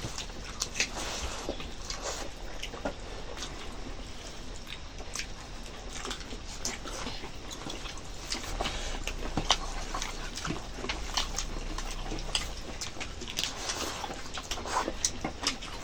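Close-up eating sounds: irregular chewing, lip smacks and small wet clicks of a person eating chicken curry with rice.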